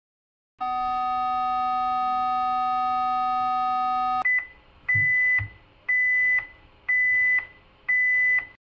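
Electronic alert tones: one steady buzzy tone held for about three and a half seconds, then five short high beeps, about one a second.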